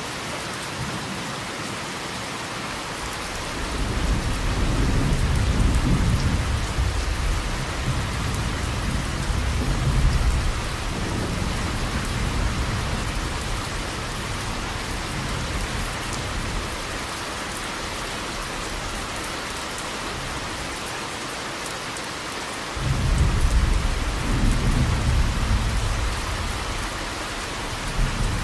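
Steady rain with rolling thunder: a long low rumble builds about four seconds in and dies away by about twelve seconds, and a second rumble starts abruptly near the end.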